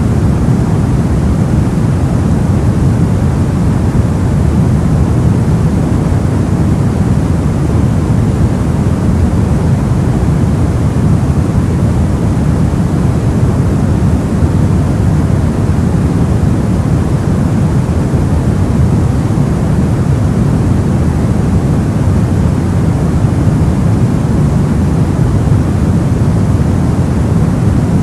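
Steady soft white noise: a constant, even hiss weighted toward the low end, without changes or separate sounds.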